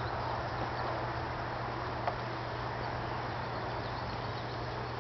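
Honeybees buzzing steadily over an open hive, with a single light click about two seconds in.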